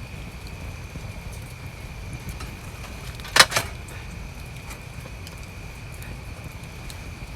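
Steady rain falling around a camp, with two sharp knocks in quick succession about three and a half seconds in.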